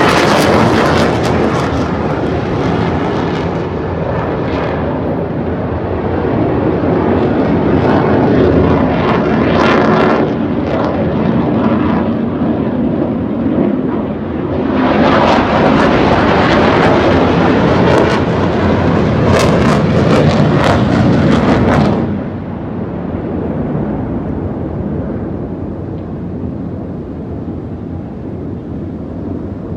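Fixed-wing aircraft flying a display, its engine noise loud throughout. It is loudest through the middle, then drops off suddenly about three-quarters of the way through.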